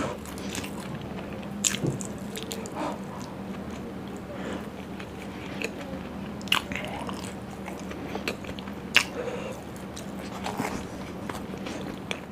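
Close-miked chewing of a mouthful of paneer and puri in gravy: soft, wet mouth sounds with sharp smacks at irregular intervals of about a second or two.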